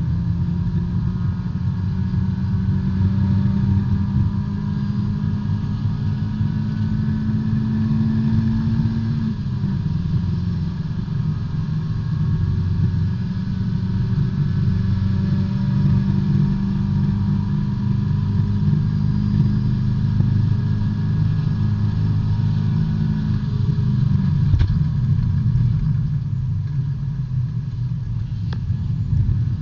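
B-Spec race car's four-cylinder engine at racing speed, heard from inside the cabin. Its note climbs slowly and drops sharply twice, about nine seconds in and again near 24 seconds.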